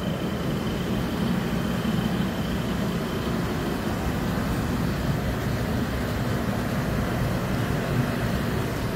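MARC commuter train's stainless-steel passenger coaches rolling past along the platform, a steady rumble of wheels on the rails. A faint high whine runs under it for the first few seconds.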